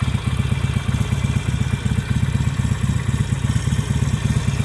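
Harley-Davidson 883 Sportster's air-cooled V-twin engine idling, with a steady, even low pulsing.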